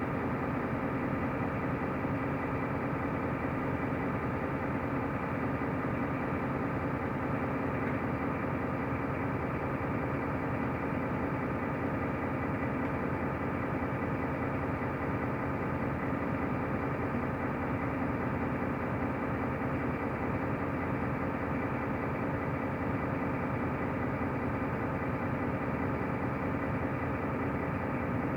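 Mercedes-Benz O345 Conecto LF city bus's diesel engine running at a steady, unchanging pitch, with its hum and vibration heard from on board the bus.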